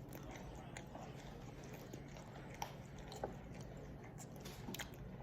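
A person chewing a mouthful of sweet and sour chicken, faint and close, with a few small sharp clicks about halfway through and again near the end.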